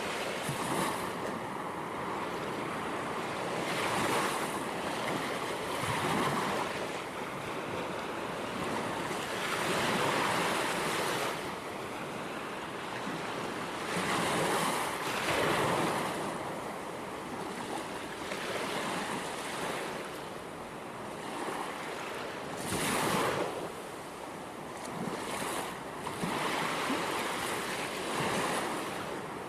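Ocean waves breaking and washing on the shore, with swells of surf every few seconds over a steady rush of water.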